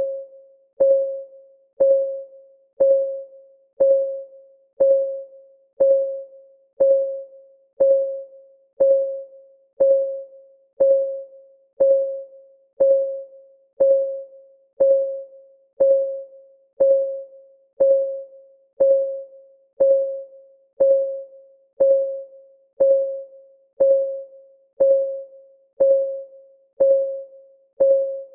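Clock ticking sound effect: a steady tick about once a second, each tick a short pitched click with a brief ring.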